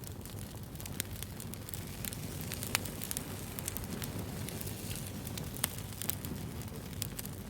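Wood bonfire burning: a steady low rumble of flames with scattered sharp crackles and pops, two of them louder, about a third of the way in and again about three-quarters of the way through.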